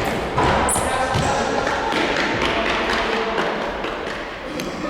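Futsal ball thuds from kicks and bounces on a hall floor, amid a steady din of sound in the hall.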